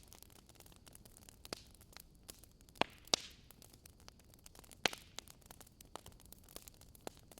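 Wood fire crackling in a fireplace: irregular sharp pops and snaps over a soft steady hiss, with a few louder pops in the middle.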